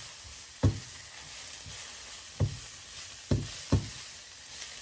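Vegetables and ground spices sizzling in hot oil in a pan while being stirred, with a spatula knocking against the pan four times.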